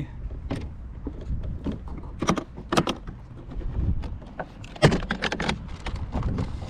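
Scattered clicks, knocks and light metal rattles of gear being handled aboard a kayak, with a steady low wind rumble on the microphone.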